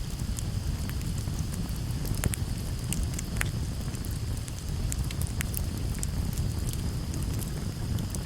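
Campfire burning, with a steady low rumble and scattered sharp crackles and pops from the burning wood.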